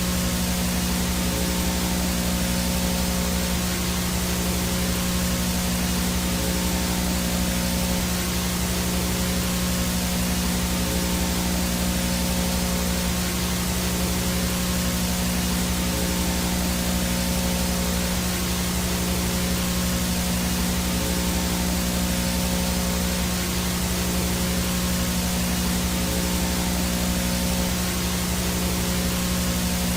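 VHS static: steady hiss of analog video noise with a low electrical hum underneath and a faint high-pitched whine, unchanging throughout.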